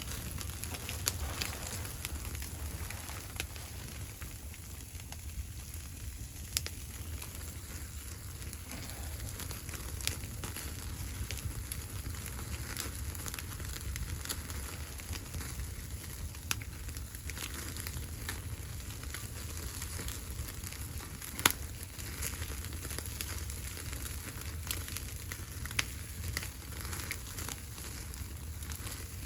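Wood fire crackling, with sharp pops at irregular intervals over a steady low rumble; one pop about two-thirds of the way through is the loudest.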